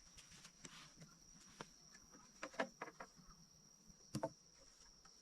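Steady high-pitched insect drone, with a few light knocks and clicks scattered through it, a cluster near the middle and two close together near the end.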